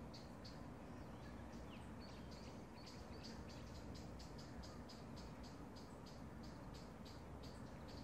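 A small bird chirping over and over in short, high chirps, a few a second and quicker in the middle, faint over a low steady background hum.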